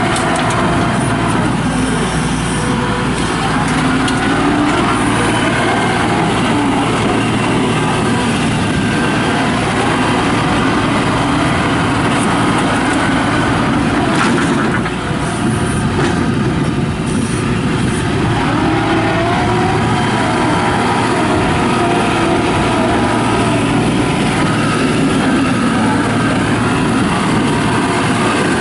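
2001 New Holland LS180 skid steer loader running: its engine drones steadily, with a few knocks or clanks about halfway through and slight changes in pitch a little later.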